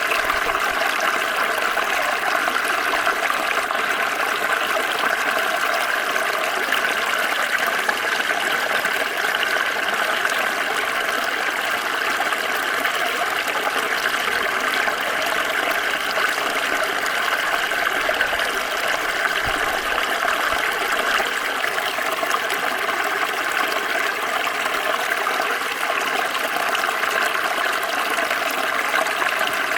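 Small stream flowing steadily over stones, an even rushing and babbling of water.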